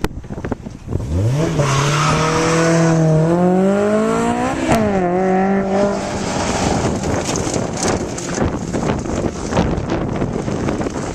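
A sports car accelerating hard, its engine note climbing steadily for a few seconds, then dropping abruptly about five seconds in and holding lower before fading into wind noise on the microphone.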